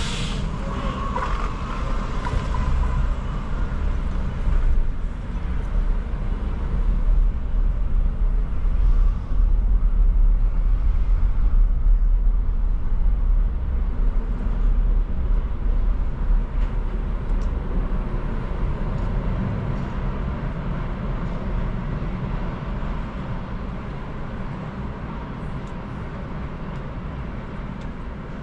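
Car driving, a steady low rumble of engine and road noise that grows louder toward the middle and eases off near the end.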